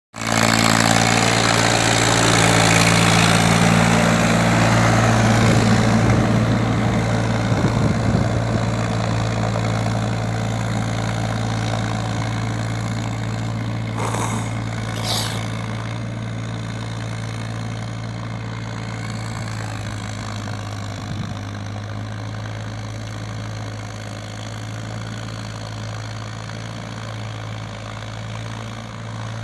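Powertrac Euro 47 tractor's diesel engine running, louder and harsher for the first six seconds or so, then settling to a steady idle. Two short high-pitched sounds come about halfway through.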